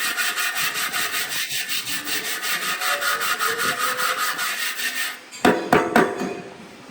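Hand scraping with quick, even back-and-forth strokes, about five a second, like a file or abrasive worked over a part. It stops after about five seconds, and a few sharp knocks follow.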